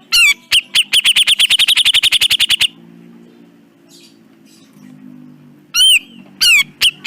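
Cucak jenggot bulbul calling. A couple of loud arching notes come first, then a fast rattling run of about ten notes a second lasting some two seconds. After a pause, three more loud arching notes come near the end.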